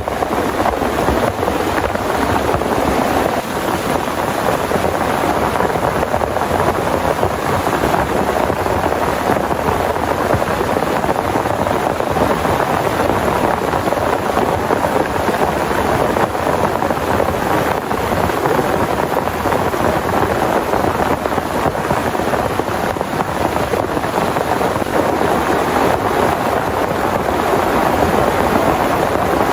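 Heavy rain pouring steadily, an unbroken dense hiss without separate drops or thunderclaps standing out.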